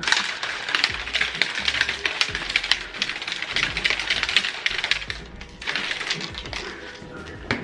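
Rapid, irregular light clicking and rattling, with a short pause about five seconds in before it picks up again.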